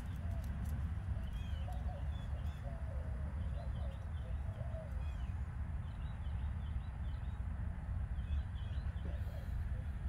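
Outdoor birds calling: short high chirps repeated throughout, and a lower wavering call in the first half, over a steady low rumble.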